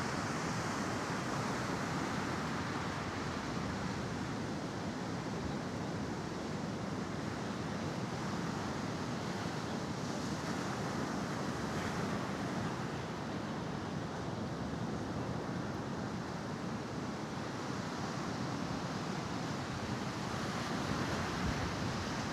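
Sea surf washing steadily onto the shore, swelling a little near the start and again near the end.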